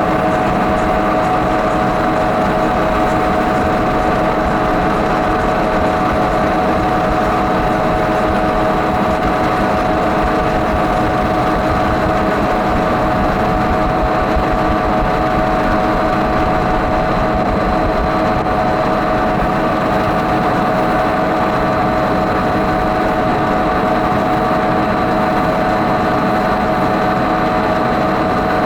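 Avió aeroplane ride running: a steady machine hum with constant whining tones over a rushing noise, unchanging throughout.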